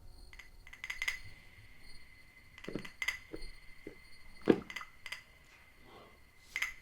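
A scattering of light clinks and knocks, like glass or small hard objects being handled, at irregular intervals, the sharpest about four and a half seconds in, over a faint steady high-pitched hum.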